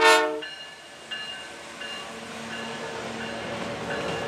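A Canadian Pacific locomotive air horn sounds a short blast that cuts off about half a second in. Then the train rolls past with a quieter, steady rumble of wheels on rail.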